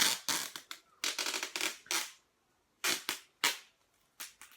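Sticky tape being pulled off the roll in several short, crackly pulls with brief gaps between.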